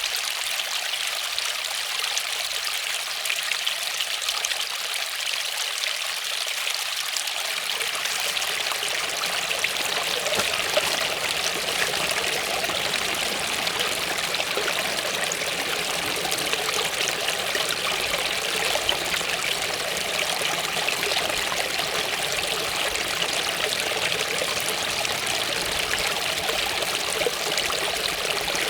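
Waterfall: a steady rush and splash of falling water, with a fuller, deeper rush from about eight seconds in.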